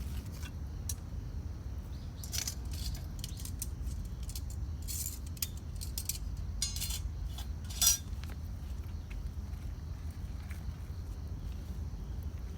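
Wood campfire crackling: scattered sharp pops and snaps over a steady low rumble, in small clusters, with the loudest single snap about eight seconds in.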